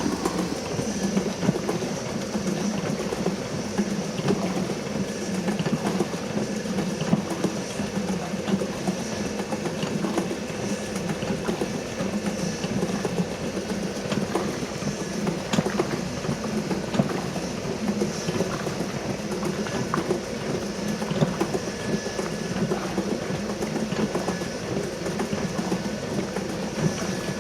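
Antique wooden washing machine running, a high-speed electric motor driving its mechanical agitator with a steady clatter.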